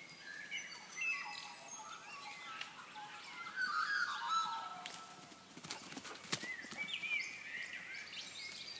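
Birds chirping and calling, several short calls overlapping, with a few sharp clicks or knocks about six seconds in.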